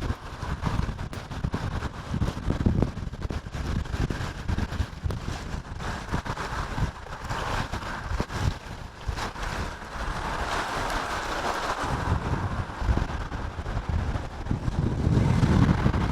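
Strong, gusting wind buffeting the microphone, a rumbling roar under a steady hiss, with a heavier gust near the end.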